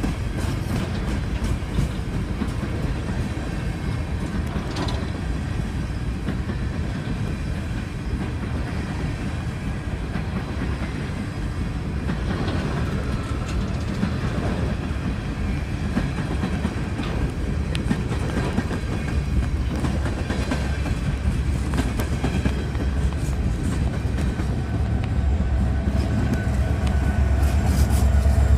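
A slow-moving BNSF coal train of empty hopper cars rolling past, its wheels clicking over the rail joints. The low rumble grows louder near the end.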